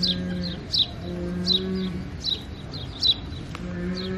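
A bird chirping over and over in short falling notes, about one every three-quarters of a second, while an animal gives three long, low, moo-like calls.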